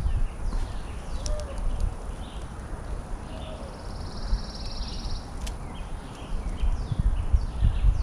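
Small birds chirping repeatedly in pine woods, with a brief buzzy trill about midway, over a low wind rumble on the microphone. A few sharp clicks come near the start and middle as the tripod-mounted camera is handled.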